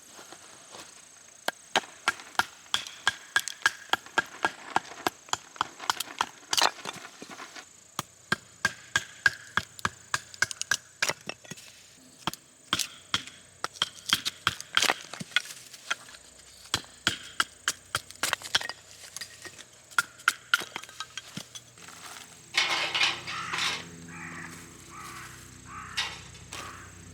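Rapid sharp knocks in bursts of several a second, each with a brief ringing tone, like repeated hard strikes on wood or metal. Near the end they give way to a denser, rougher stretch of noise.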